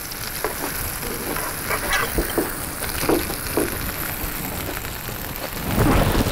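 Food frying in a pan, a steady sizzling hiss, with scattered light clicks and knocks. A louder low rumble of noise comes near the end.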